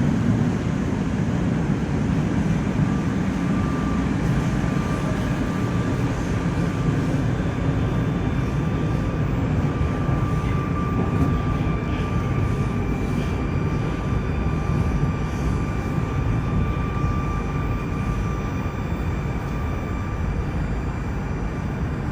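Moscow Metro train running through a tunnel: a steady rumble of wheels on rail, with a thin high whine coming in a few seconds in and a second, higher whine joining about halfway. It eases slightly near the end.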